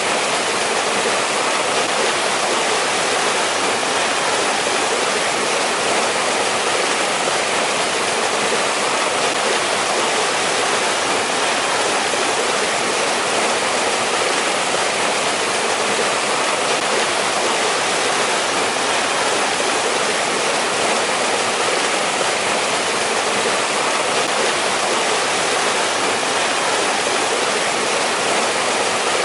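Mountain stream rushing over rocks, a steady, even flow of water with no pauses or changes.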